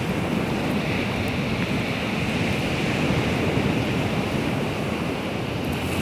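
Baltic Sea waves washing on the shore, a steady rush of surf.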